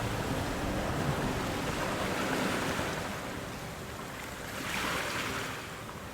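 Ocean waves washing in surf as a steady rushing hiss that swells and ebbs, with one wave surging up about five seconds in.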